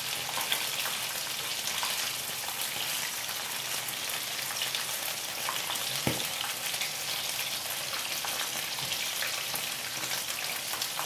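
Battered pieces frying in hot oil in a frying pan: a steady sizzle with fine crackling. A single soft knock comes about six seconds in.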